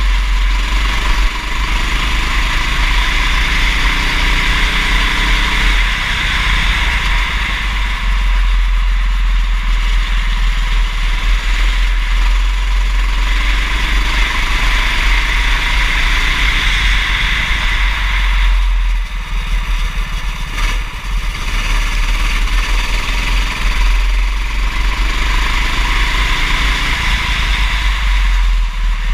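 Kart engine running at race pace, its pitch climbing three times as it accelerates and dipping briefly about two-thirds of the way in, with heavy wind rumble on the microphone.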